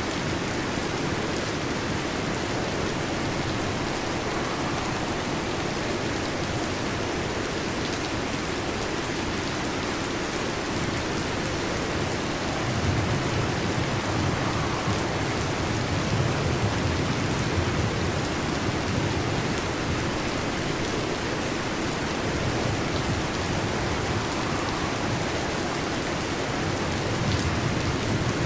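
Heavy rain drumming steadily on a metal roof. A low rumble of thunder swells up about halfway through, and again briefly near the end.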